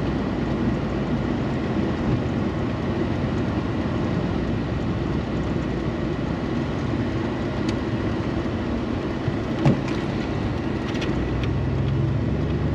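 A vehicle driving slowly, with steady engine and tyre rumble. A single sharp knock comes about ten seconds in, and a low engine hum grows stronger near the end.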